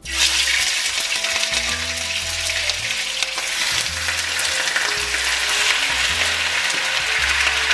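Raw chicken pieces sizzling steadily in hot vegetable oil in a nonstick frying pan, the sizzle starting abruptly as the first pieces hit the oil.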